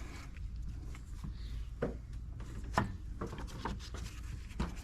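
Scattered light clicks and rubbing from hands working on parts in a car's engine bay, with a few sharper clicks, over a steady low hum.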